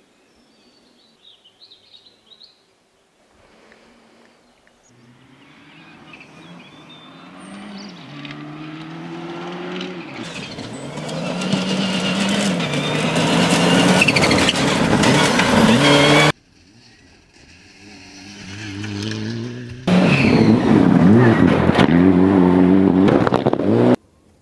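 Rally car engine at full throttle, approaching and growing louder, its note climbing and dropping back at each gear change. After a sudden cut, another loud stretch of a rally engine at high revs ends abruptly near the end.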